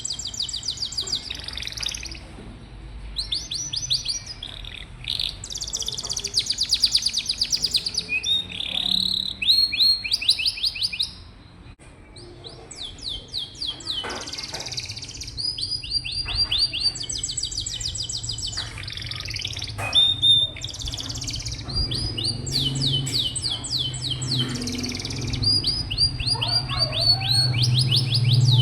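Domestic canary singing a long, high-pitched song of fast rolling trills, each phrase a rapid run of repeated notes, with a short pause about eleven seconds in.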